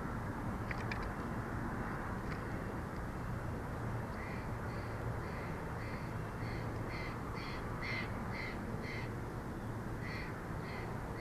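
A bird calling in a long series of short harsh notes, about two a second, starting a few seconds in. Under it runs a steady background rush with a low hum.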